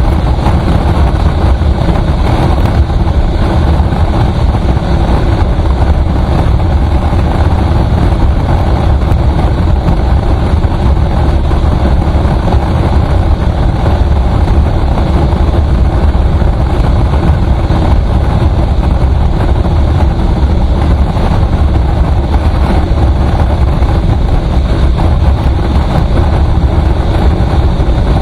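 Steady, loud engine and road noise of a vehicle travelling on a highway, heaviest in the low end and unbroken throughout.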